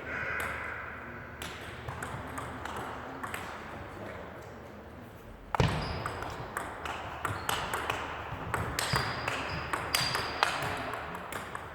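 Table tennis ball clicking off bats and the table, many sharp hits at irregular spacing, thicker in the second half. A heavy thump a little past halfway is the loudest sound.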